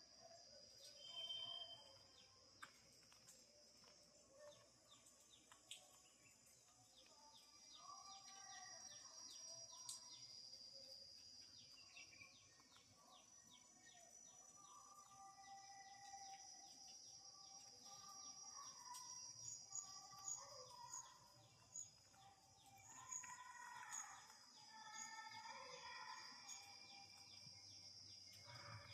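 Budgerigar chattering and warbling faintly, with a steady high-pitched hiss underneath.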